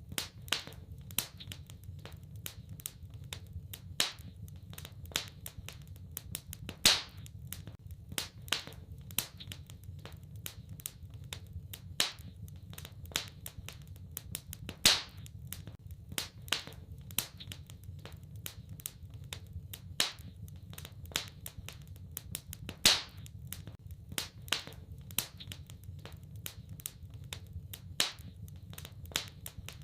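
Wood fire crackling in a fireplace: a steady scatter of irregular sharp pops and snaps, with a louder pop every few seconds, over a low steady rumble.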